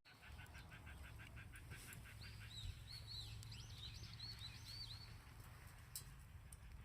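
A small songbird singing faintly: a quick run of repeated short notes, then a string of arching whistled notes that stops about five seconds in. A steady low rumble runs underneath.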